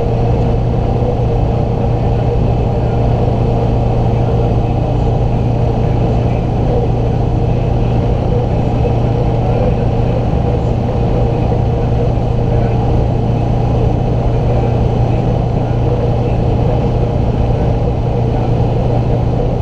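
Range Rover Classic's 2.5-litre VM four-cylinder turbodiesel running at steady high revs as the vehicle holds near top speed, a constant drone at unchanging pitch with no gear changes.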